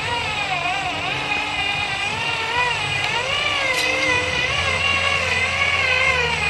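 Truck engine and drivetrain whine straining under load, the pitch rising and falling about once a second, over background music.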